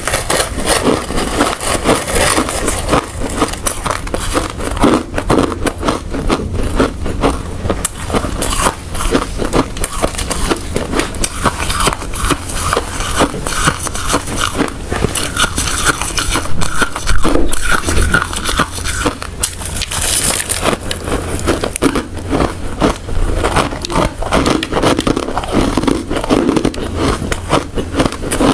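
Hard ice being bitten and chewed close to the microphone: a continuous run of loud, rapid crunches and crackles.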